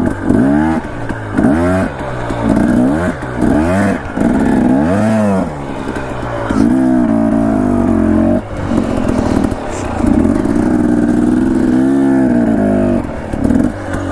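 Dirt bike engine revving in short blips of throttle, its pitch rising and falling about once a second, then held steadier for a couple of seconds at a time later on, as the bike is ridden slowly over rough, overgrown trail.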